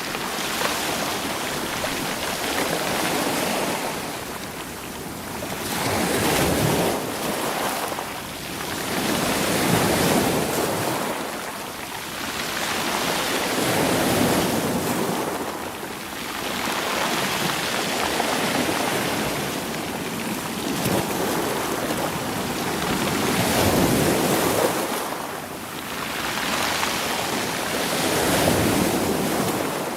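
Sea waves washing over a rocky, stony shore, rolling the stones, in surges that swell and ebb about every four to five seconds.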